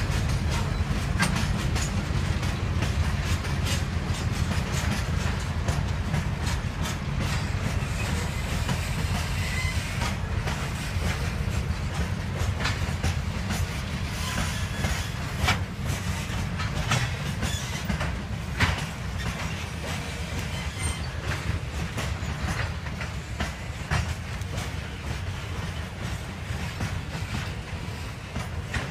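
Freight wagons of a ballast train rolling past, their wheels clicking and clattering over the rail joints over a continuous low rumble. The sound slowly fades as the train goes by.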